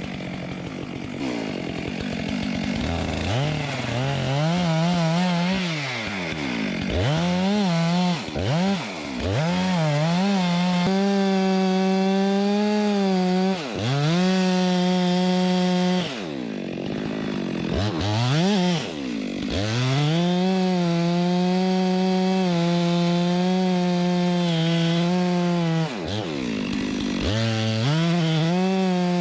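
Two-stroke chainsaw at full throttle, cutting into the butt of a storm-blown backbutt tree. Several times the pitch falls away as the throttle is eased off, then climbs straight back up to full revs. The longest steady runs are about a third of the way in and in the last third.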